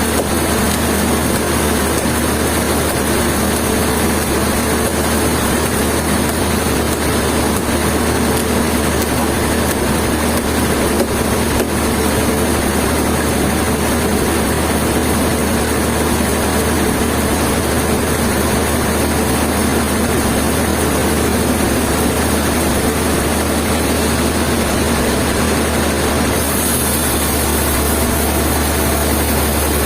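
Heavy engine-driven machinery running steadily at one constant level. About 26 seconds in, a higher hiss joins and the low hum grows stronger.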